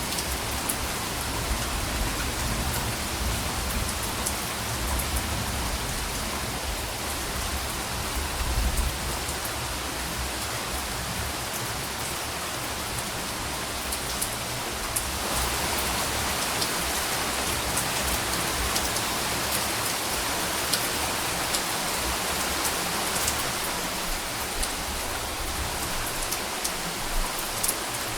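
Steady rainfall with many individual drops ticking on a surface. A low rumble runs under it through the first half and is loudest about eight or nine seconds in.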